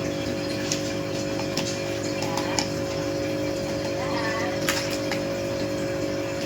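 Steady mechanical hum at several fixed pitches, with a few sharp clicks and taps scattered through it.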